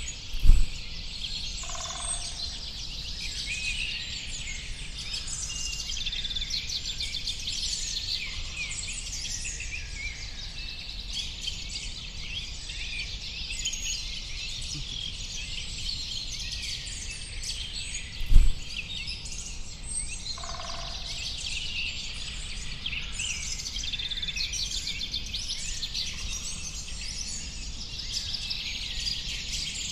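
Dense chorus of many small birds chirping and twittering, with a lower call heard twice. Two short low thumps stand out above it, one near the start and one about two-thirds of the way through.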